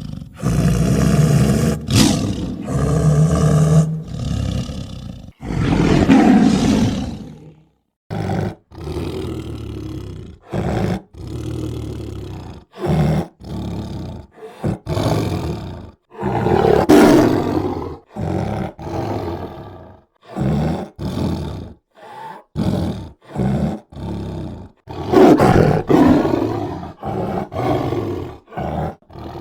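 Tiger roaring and growling again and again: a few long roars of a second or two, with many short roars and snarls between them, each cut off suddenly by a brief silence.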